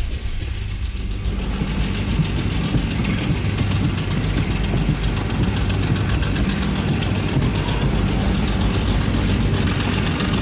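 Passenger train running along the track: a steady, loud rumble with a rattle.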